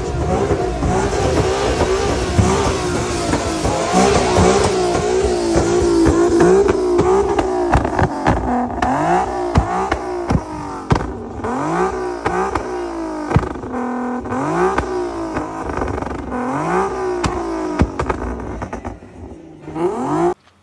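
Truck engine revved hard. It is held at high revs for several seconds, then revved up repeatedly in quick rises about once a second, and cuts off suddenly at the end.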